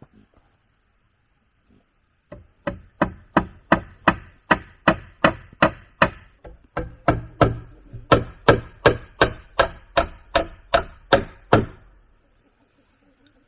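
A tool striking wood in a quick, steady series of about two dozen blows, roughly three a second, with one short pause partway through.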